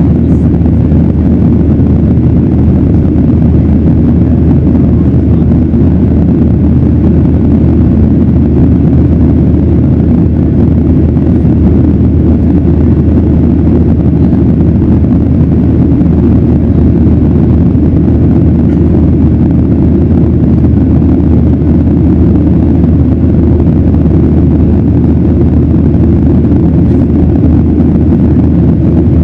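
Steady low rumble of a Boeing 737-900ER's CFM56-7B jet engines and airflow, heard from inside the cabin.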